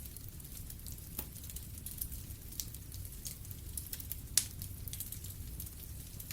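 Fireplace fire crackling: irregular small pops and snaps over a steady low rumble, with one louder pop about four seconds in.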